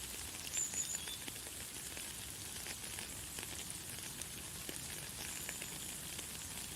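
Light, fine rain falling steadily, a soft even hiss full of tiny drop ticks. A few brief high bird chirps come about half a second in, and a longer thin high note comes around five seconds in.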